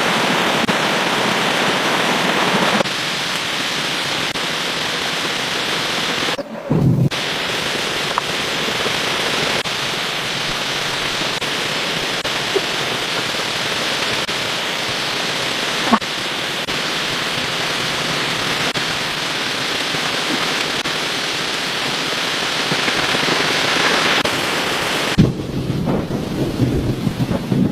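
Steady rushing, hissing water noise, with a short break about six and a half seconds in. Near the end the hiss falls away, leaving uneven low rumbles and knocks.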